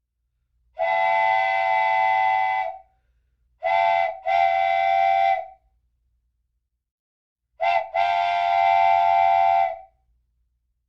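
Train whistle blowing in separate blasts: one long blast, then a short blast followed by a long one, twice over. Each blast is a steady chord of several high tones that starts and stops abruptly.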